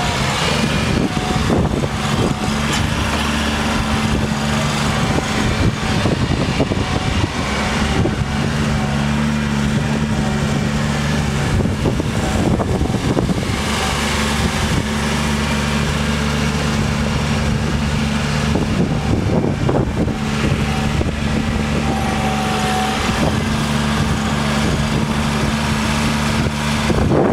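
Bobcat 463's Kubota diesel engine running at a steady speed, its low drone breaking up briefly a few times.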